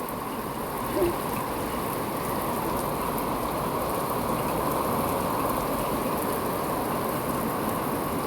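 Heavy rain pouring down, a steady dense hiss of drops on surfaces.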